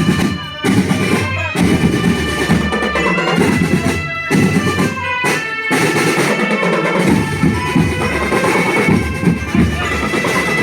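School marching drum band playing: marching drums beat out a dense rhythm under sustained melodic notes, with a few brief breaks where the band stops together.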